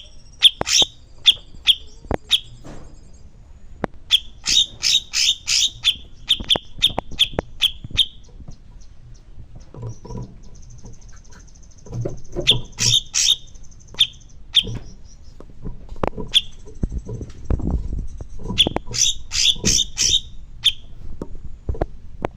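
Cucak cungkok singing: runs of loud, sharp, short notes at about two a second, broken by short pauses, with a thin high trill running under parts of it.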